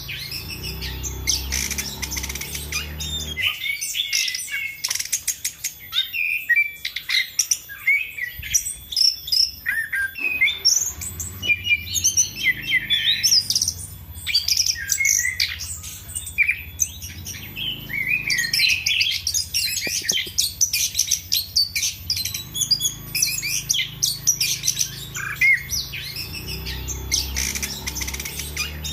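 Chestnut-capped thrush (anis kembang) singing in full song: a continuous, rapid stream of varied high chirps, whistles and trills.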